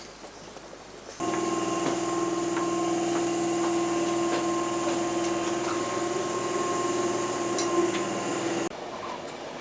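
A steady mechanical hum with two held tones and a few faint ticks, cutting in sharply about a second in and stopping abruptly near the end.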